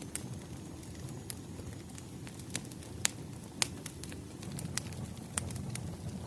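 Firewood burning and crackling: a low steady rumble with irregular sharp pops, the loudest about three seconds in.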